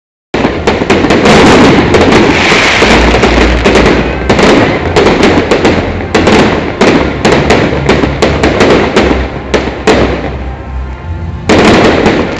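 Fireworks display: a dense, continuous barrage of rapid crackling bangs and booms that thins out about ten seconds in, then another loud burst near the end. It starts abruptly after a split second of dead silence.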